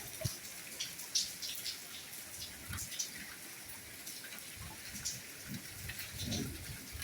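Soft rainfall: a steady hiss of rain with individual raindrops ticking and dripping irregularly close by, and a low thud about six seconds in.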